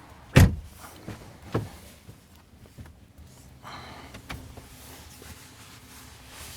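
Thumps and knocks of a person climbing into the back seat of a two-door coupé: a loud thump about half a second in and a smaller one about a second later, with light taps. A faint whir follows partway through.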